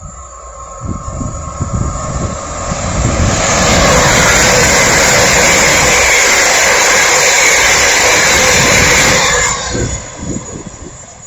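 A train passing close by at speed: a rumble builds, then a loud steady rush of noise holds for about six seconds before dropping away quickly near the end.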